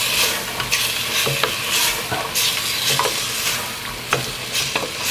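Curry spice paste, loosened with a splash of base gravy, sizzling in a stainless steel saucepan as it is stirred, with irregular short scrapes of the spoon against the pan. The liquid is there to stop the frying spices from burning.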